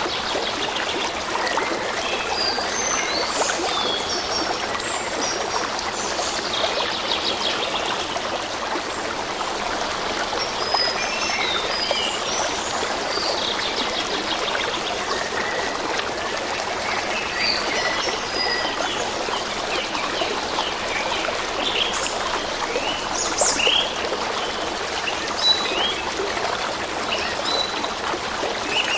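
A stream running and trickling steadily, with small songbirds chirping and trilling above the water throughout.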